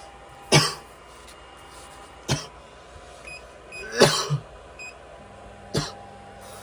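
A man coughing four times, each a short harsh cough about two seconds apart; the third is a double cough.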